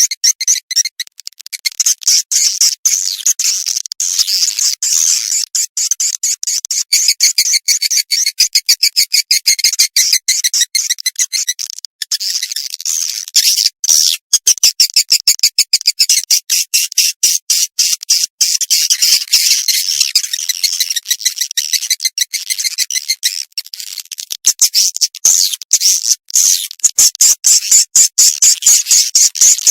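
Swiftlet call recording, a 'suara panggil walet' lure sound played to draw swiftlets into a nest house: a continuous, high-pitched chattering of rapid short chirps, many a second.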